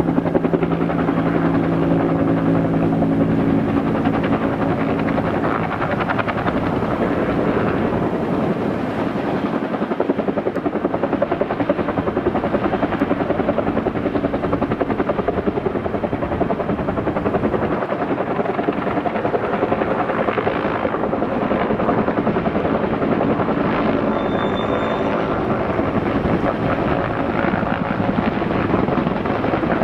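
Helicopter running steadily, its rotor blades beating fast and evenly over the engine noise, with a steady hum for the first five seconds or so.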